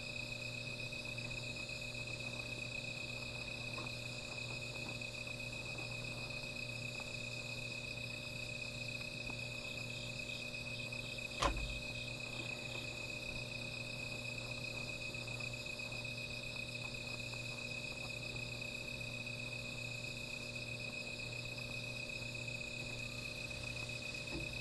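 Night insects, crickets among them, calling steadily in a continuous high trill with a faster pulsing trill above it. About ten seconds in, another insect adds a short run of chirps, about three a second, and a single sharp click sounds around the middle.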